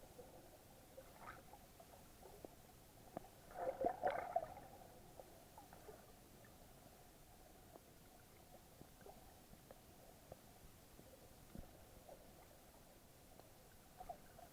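Muffled underwater sound picked up through an action camera's waterproof housing: faint scattered clicks, with a short gurgling burst of bubbles about four seconds in and another small one near the end.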